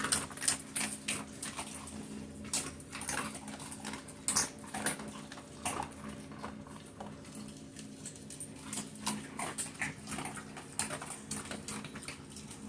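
Dogs eating raw dry pasta, a quick, irregular run of sharp crunches and crackles as they chew.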